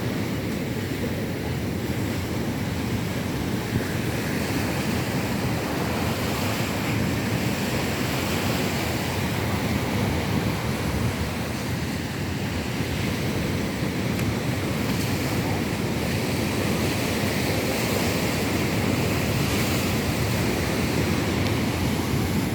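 Rough sea surf washing steadily onto a beach, with wind buffeting the microphone.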